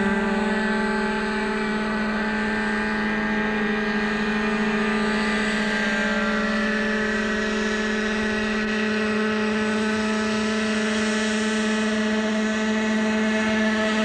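Glow engine of a radio-controlled model UH-1 Iroquois helicopter running at a steady pitch, a loud buzz with the rotor.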